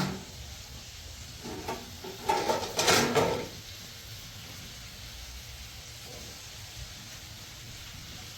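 A short run of knocks and clattering, loudest about three seconds in, over a steady low background noise.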